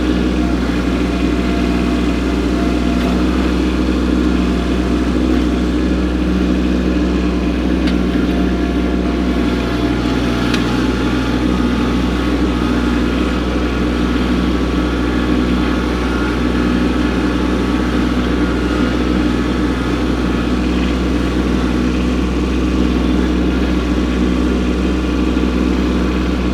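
Kubota B2601 compact tractor's diesel engine running steadily at working speed while the grapple handles a rock.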